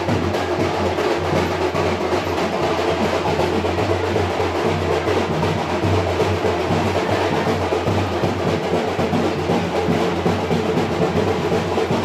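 Wedding band music played continuously, led by snare and bass drums beating a fast, steady rhythm with pitched instruments over them.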